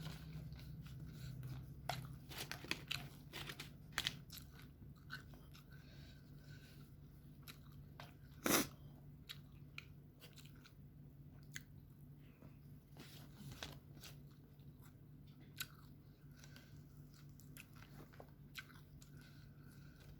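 Close-up eating sounds: chewing and crunching mouthfuls of fried rice with chicken, with many short sharp clicks and one louder knock about eight and a half seconds in, over a steady low hum.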